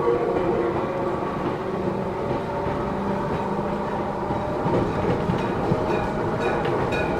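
Inside a Matsumoto Electric Railway 3000 series electric train running on the line. The rumble of the moving car carries steady tones that fade out about halfway through, and a few rail-joint clicks come near the end.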